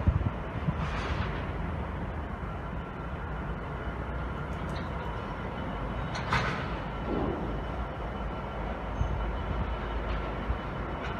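Train running at a station, a steady low rumble with a brief sharper, higher sound about six seconds in.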